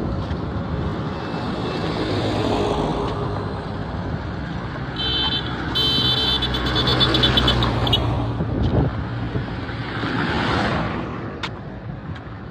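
Road traffic going by on a busy street, with vehicles passing close. From about five to eight seconds in, a high-pitched horn sounds in quick pulses.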